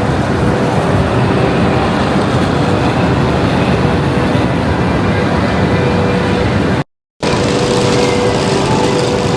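Steady loud rumble and hiss of railway station ambience, with faint constant hums and no distinct events. It cuts out completely for a moment about seven seconds in.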